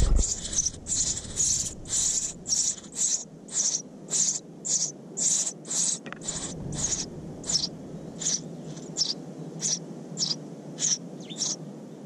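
A small bird calling: a short, high note repeated evenly about twice a second, over a steady low background noise.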